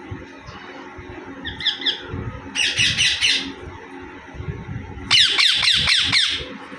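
Rose-ringed (Indian ringneck) parakeet calling in three bursts of rapid, repeated harsh notes, a short burst about a second and a half in, then a longer one, and the loudest and longest near the end.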